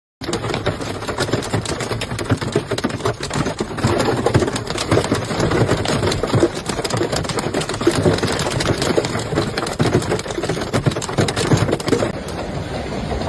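Large hailstones pelting down in a dense, rapid barrage of hard knocks and clicks over a steady roar of falling ice and rain.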